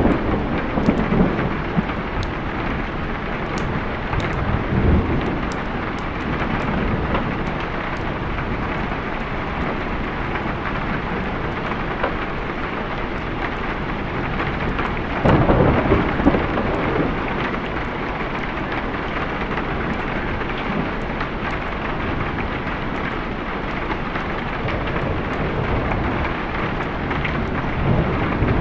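Steady heavy rain with rolling thunder: low rumbles swell near the start and again a few seconds in, and the loudest roll comes about halfway through.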